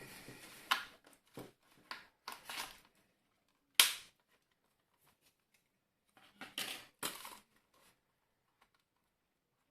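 Hard plastic clicks, knocks and short scrapes from working the plastic housing of a steam iron apart, with one loud sharp snap about four seconds in and a cluster of clicks near the end.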